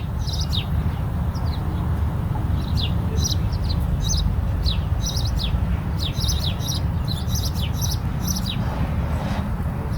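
Small birds chirping: many short, quick downward chirps, some in rapid clusters, over a steady low rumble.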